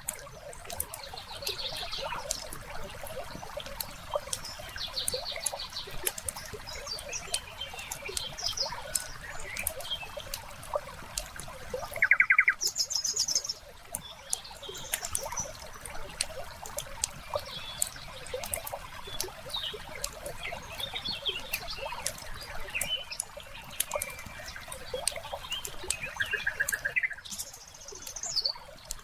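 Wood fire crackling with many small pops and snaps, mixed with songbirds calling in short trills several times, the loudest call about twelve seconds in, over faintly trickling water.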